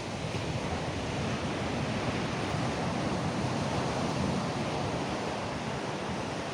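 Sea surf washing onto a beach, a steady rushing wash, with wind buffeting the microphone.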